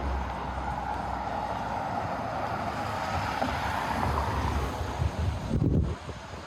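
Street traffic noise swelling and fading as a vehicle passes, with wind buffeting the microphone in low gusts near the end that cut off abruptly.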